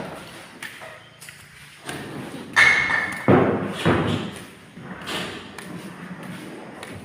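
Heavy thuds and knocks from shed demolition, several in quick succession about two and a half to four seconds in, the first with a brief metallic ring.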